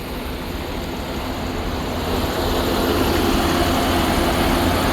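A vehicle engine running over a steady low hum, growing louder from about two seconds in.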